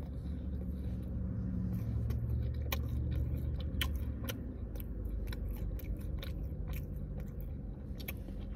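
Close-up chewing and mouth sounds of someone eating a burger, with scattered sharp clicks, over a low steady hum that fades somewhat about halfway through.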